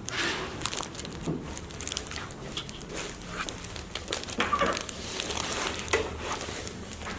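Scattered rustling with irregular small clicks and knocks, as of things being handled close to the microphone.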